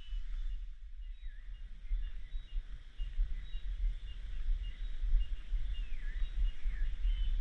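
Rainforest ambience: a steady high chorus of cicadas, with a few bird whistles that dip and rise, one about a second in and two near the end. A low rumble, like wind or handling on the microphone, runs underneath.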